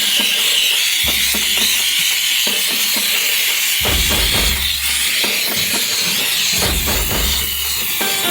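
Steam cleaner hissing steadily while it jets steam, over background music with intermittent deep bass notes.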